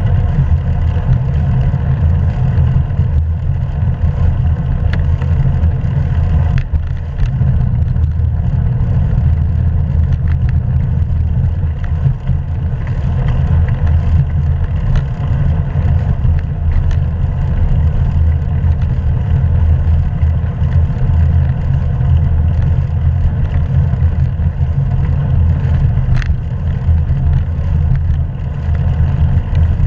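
Wind rumbling on a GoPro's microphone as a bicycle is ridden along, mixed with tyre and road noise. It is a steady low rumble with a few faint clicks.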